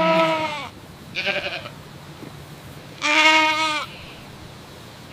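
An animal calling three times with a held, wavering cry: two long, loud calls, at the start and about three seconds in, with a shorter, fainter one between them.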